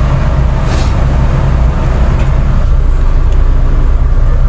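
Steady low drone of a parked semi truck's diesel engine idling, heard from inside the cab.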